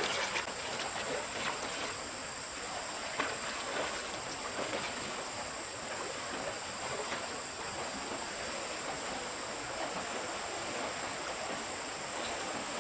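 Stream water running steadily, with a constant high-pitched insect drone over it and a few faint ticks.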